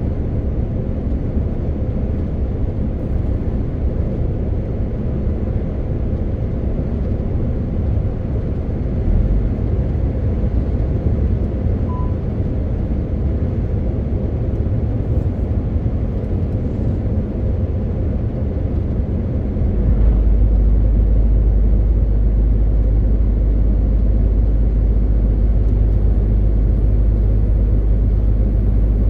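MAN TGX 18.520 truck on the move: its 12.4-litre straight-six diesel engine runs steadily under tyre and road noise. About twenty seconds in, the low rumble steps up louder and stays there. A short beep sounds about twelve seconds in.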